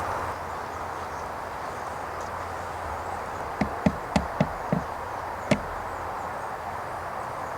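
A run of six quick, sharp knocks or taps, one after another, starting about halfway in, over a steady outdoor hiss.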